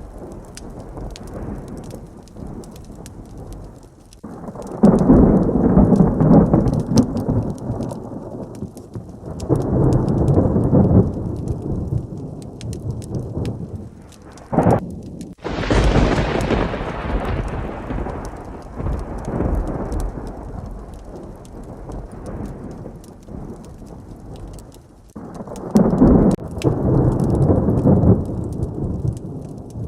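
Steady heavy rain with thunder: several long, low rolling rumbles, and one sharp, close thunderclap about halfway through that dies away over several seconds.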